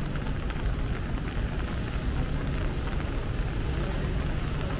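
Steady rain falling on wet pavement, with a continuous low rumble of road traffic.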